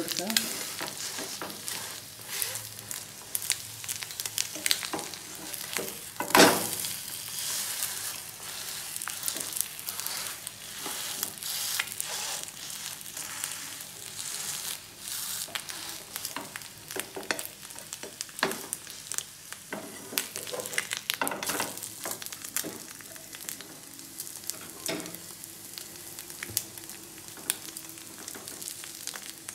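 Egg-coated pastry sizzling in hot oil in a non-stick frying pan, with a spatula scraping and pressing against the pan and many small crackles. One loud knock about six seconds in.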